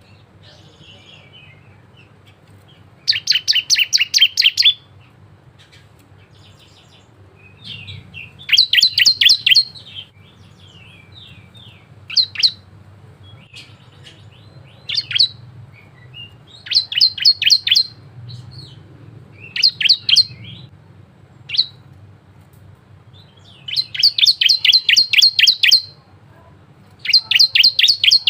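Bar-winged prinia (ciblek) singing: bursts of rapid, high repeated notes lasting one to two seconds, about seven times, with single sharp chips in between.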